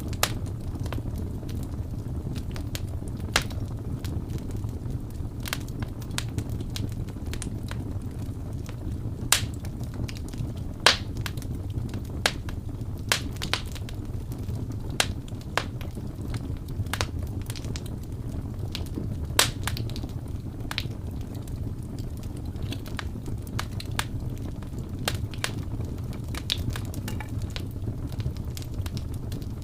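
Wood fire crackling in a fireplace: irregular sharp pops and snaps, a handful of them louder, over a steady low rumble.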